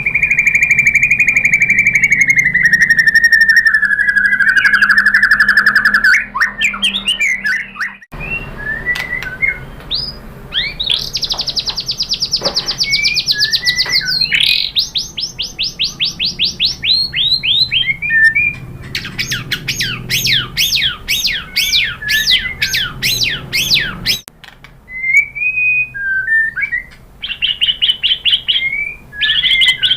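White-rumped shama (murai batu) singing loud, varied song. It opens with a long whistled note that slides slowly downward, followed by quick trills and fast runs of repeated rising sweeps. The song breaks off abruptly twice, about eight seconds in and again near the last third.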